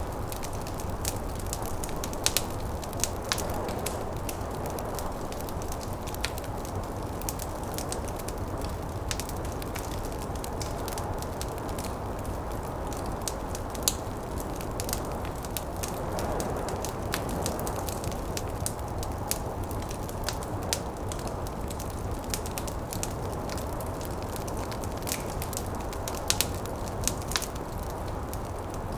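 Wood fire crackling, with frequent sharp pops scattered irregularly, over a steady low rush of snowstorm wind that swells briefly about halfway through.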